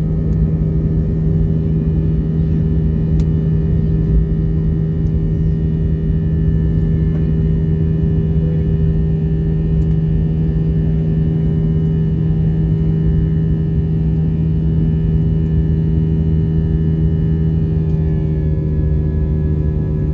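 Airbus A320 jet engines heard from inside the passenger cabin during takeoff: a loud, steady drone with a deep hum and fainter higher whines, the higher tones shifting slightly near the end.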